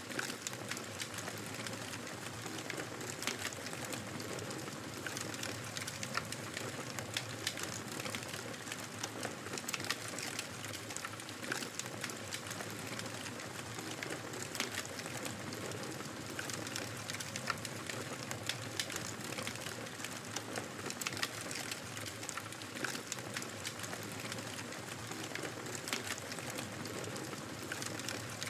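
Wood fire crackling in a fireplace: a steady soft hiss with frequent small pops and snaps scattered irregularly throughout.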